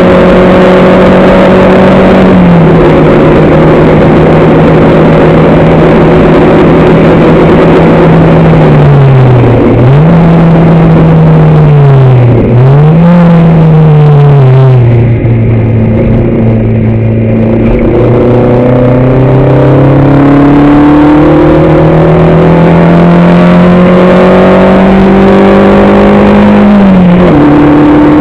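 On-board sound of a racing vehicle's engine under hard use. The engine holds high revs, then its pitch dips sharply twice around 10 and 12 seconds, as on downshifts under braking. It then pulls up slowly from low revs for about twelve seconds before a sudden drop near the end, as on an upshift.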